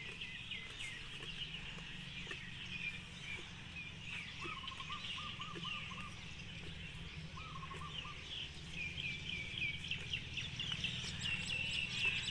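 Small birds chirping and twittering, with quick runs of high chirps that grow busier near the end. A lower, quickly repeated call is heard twice midway, over a steady low background rumble.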